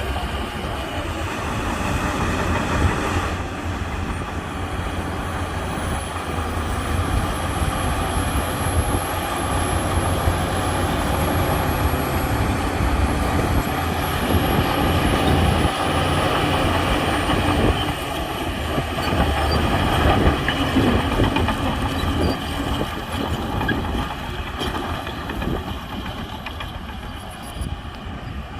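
Shantui crawler bulldozer working: its diesel engine runs hard under load while it pushes dirt, with the steady clanking of its steel tracks.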